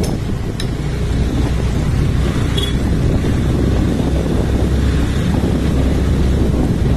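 A vehicle on the move: a steady low rumble of engine and road noise with wind buffeting the microphone, and a light knock or rattle within the first second.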